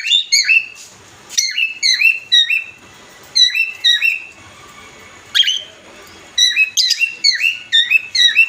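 Adult cockatiels giving loud contact calls to a partner: clusters of short, sharp chirping whistles, several a second, with a pause about midway.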